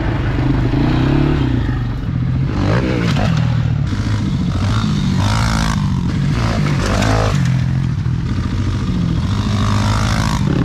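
Dirt bike engine revving up and down repeatedly, its pitch rising and falling, with some clatter.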